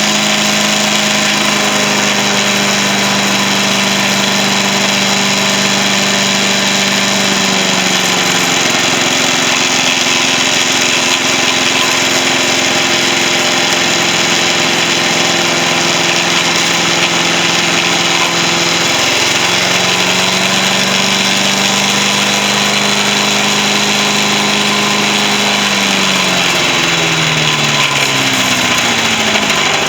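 Vintage Yard-Man SC8 chipper-shredder's Tecumseh engine running. Its pitch dips about 8 seconds in, comes back up about 19 seconds in, and falls away in steps near the end.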